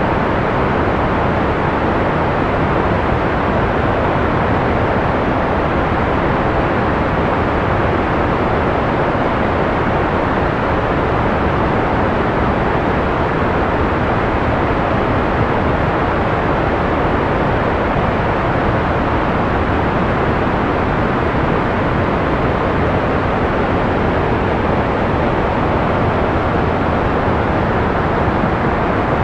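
Steady, unchanging white noise of a sleep-aid recording, with its treble rolled off so it sounds like a soft, even rushing hiss rather than a bright one.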